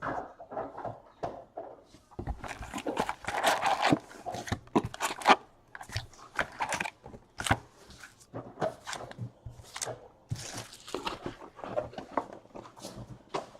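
Baseball card pack wrappers tearing and crinkling as packs are opened and the cards handled, with dense, irregular rustles and snaps.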